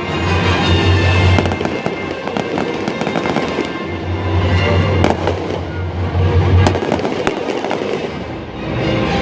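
Fireworks going off in rapid succession, with sharp bangs and crackling, over music playing from the stadium speakers.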